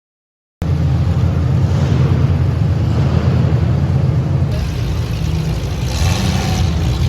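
Compact demolition derby car's engine running, loud and steady with most of its sound low down. The sound cuts in abruptly from dead silence about half a second in.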